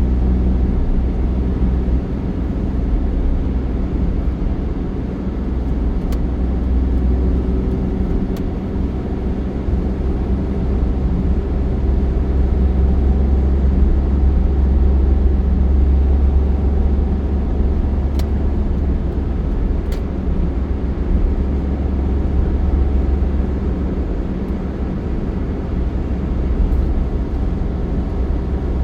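Steady low rumble of a moving road vehicle: engine and road noise without letup, with a few faint clicks.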